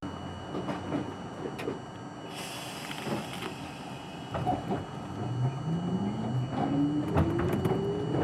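R42 subway car pulling out of a station: a hiss of air about two seconds in, then the traction motors' whine rising steadily in pitch as the train accelerates, with clanks and clicks from the wheels and car.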